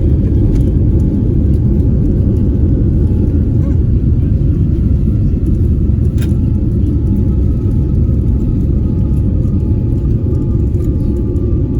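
Airliner cabin noise: a loud, steady low rumble with a faint, even engine whine above it. A single sharp click comes about six seconds in.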